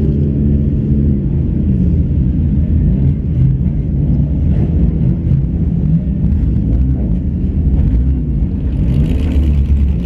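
Race car's engine heard from inside its stripped-out, bare-metal cabin, running under load with the pitch rising and falling as the throttle is worked. A hiss joins near the end.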